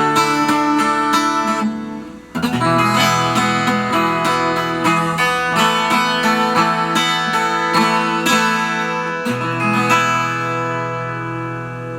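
Acoustic guitar music, the instrumental ending of a song: picked and strummed notes, a short break about two seconds in, then a last chord about nine seconds in that rings on and slowly fades.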